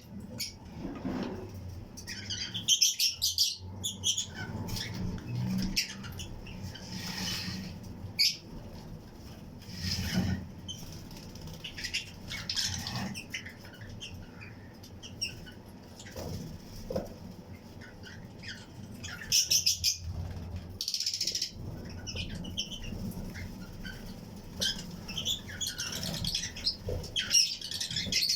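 A colony of Fischer's and lutino lovebirds chirping, in irregular bursts of high chirps every second or few.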